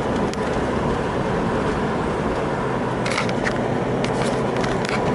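Steady road and wind noise of a moving car, picked up by a phone held out of the car window, with a few short scratchy crackles near the end.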